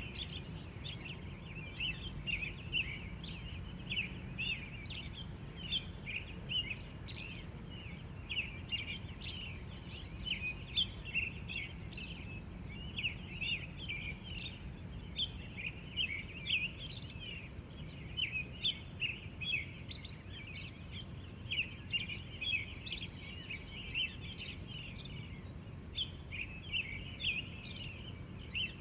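Dawn chorus of wild songbirds: many short chirps and song phrases overlapping without a break, over a steady high-pitched trill and a low steady rumble.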